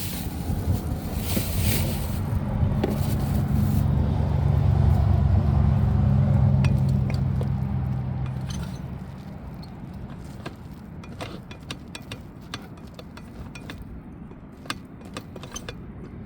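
A passing motor vehicle: a low engine hum that swells to its loudest about five seconds in and fades away by about nine seconds. Through the second half come scattered light clinks and scrapes.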